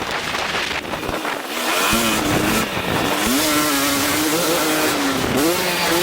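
2023 KTM 250 SX-F four-stroke dirt bike engine on and off the throttle: it drops away about a second in, then comes back with several rising revs.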